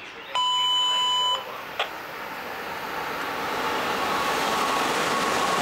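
A loud electronic beep, one steady tone about a second long, followed by a click. Then the rushing noise of an Amtrak train approaching at track speed grows steadily louder.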